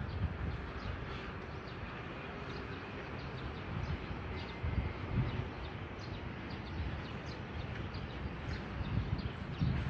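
Outdoor birdsong ambience: a steady high-pitched insect drone under many short, quick bird chirps, with irregular low rumbles.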